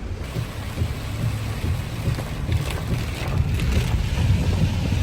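A car driving on a flooded road in a downpour: a low rumble of the car on the road with water hissing and splashing, growing louder toward the end.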